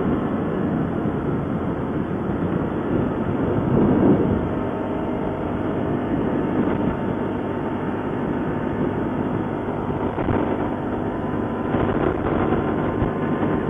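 ATV engine running steadily while riding, picked up on a GoPro microphone along with dense ride and wind noise; it swells briefly about four seconds in.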